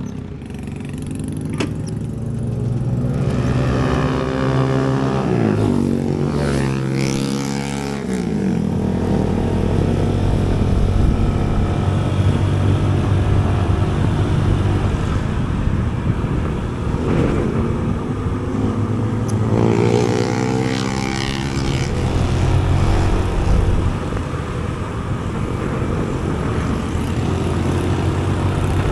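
Motor vehicle engine running while under way, with road noise. Its pitch sweeps up and down a few seconds in and again about two-thirds of the way through, as the vehicle changes speed.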